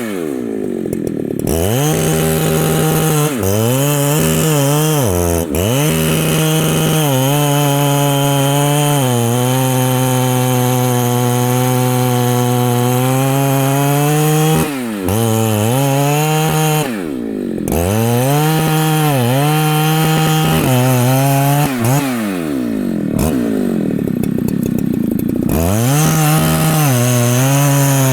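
Large Husqvarna two-stroke chainsaw running at full throttle while cutting wood. The engine drops in pitch and comes back up several times, most deeply near the start and for about two seconds late on.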